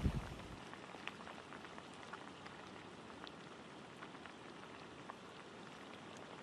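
Rain falling steadily and fairly faint, with scattered drops ticking; a low rumble dies away in the first half second.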